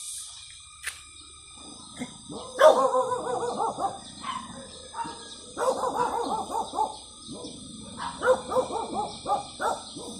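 Three runs of quick, pitched animal calls, each run made of rapid short notes and lasting a second or two, over a faint steady high-pitched background hiss.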